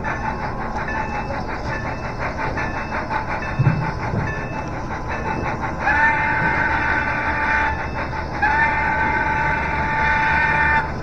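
Sound-equipped model of Norfolk & Western steam locomotive 475 running: steady rhythmic chuffing, then two long whistle blasts, the first about six seconds in and the second just after it.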